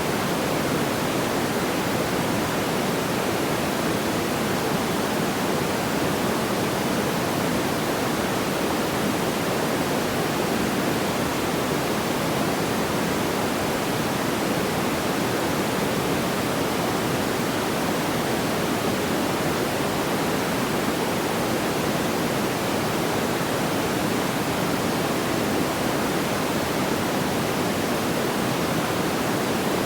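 Steady, even rushing noise like pink noise, with no crackles or pops and no change in level.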